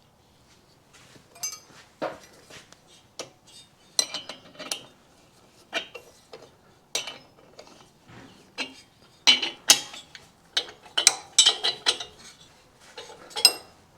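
Irregular clinks and knocks of steel parts and tools being handled and set in place while a drilling guide is lined up over a broken stud hole. The knocks come more often and louder from about nine seconds in.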